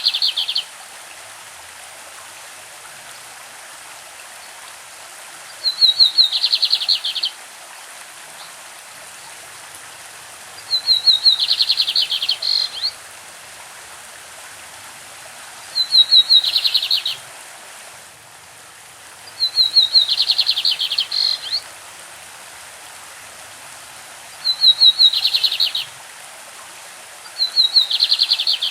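Lined seedeater (bigodinho) singing its classic song: a phrase about every five seconds, each a few clear high notes running into a fast buzzy trill about a second and a half long. A steady rush of a stream runs underneath.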